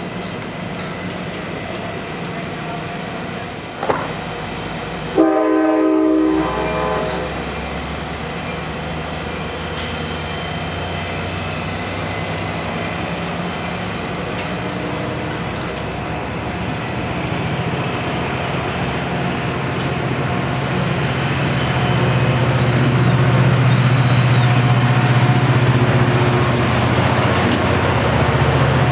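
Amtrak passenger train's locomotive horn sounds one blast of about a second, about five seconds in. The diesel locomotive's engine then rumbles steadily and grows louder toward the end as the train draws near.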